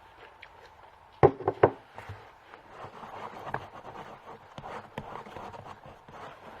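Three sharp knocks close together about a second in, then leather balm being rubbed over the leather of a boot in uneven strokes.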